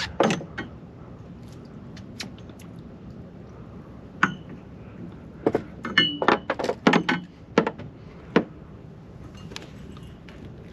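Clicks, knocks and light clinks of fishing tackle being handled on a small boat, scattered at first and then a dense cluster through the middle, a few of them briefly ringing.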